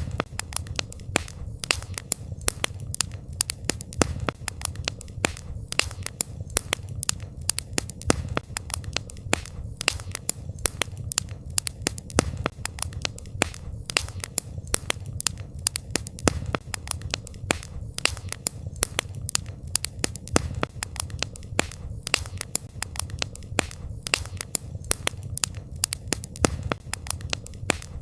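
Campfire crackling: many irregular, sharp pops and snaps over a steady low rumble of the burning fire.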